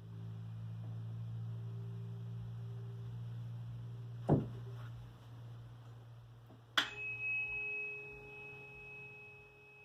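Tuning forks ringing: a low fork hums steadily, a sharp tap comes about four seconds in, and about seven seconds in another fork is struck and rings on with a high, clear tone.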